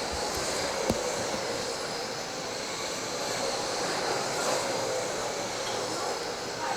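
Several 21.5-turn brushless electric RC trucks racing on the track: a steady mix of motor whine and tyre noise, with one sharp knock about a second in.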